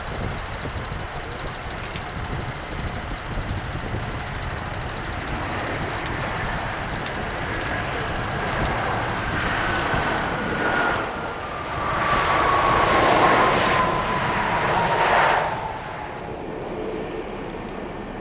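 Airbus A320neo jet engines on landing approach passing close by: a whine that falls steadily in pitch as the aircraft goes past, loudest about two-thirds of the way in, then fading. Wind rumbles on the microphone throughout.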